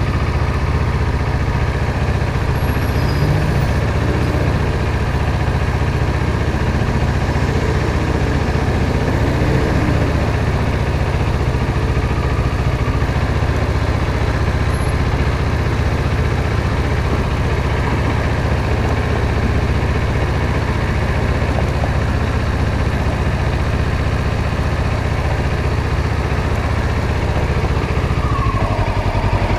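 Motorcycle engine running steadily under the rider, with a constant low drone over road and wind noise.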